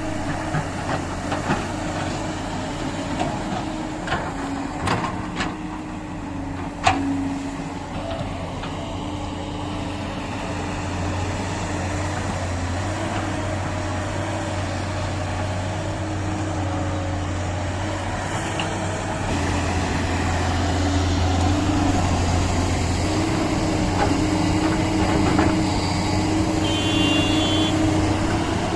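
Diesel engine of heavy earthmoving machinery running steadily, with a few sharp clicks or knocks in the first several seconds; the engine gets louder about two-thirds of the way through.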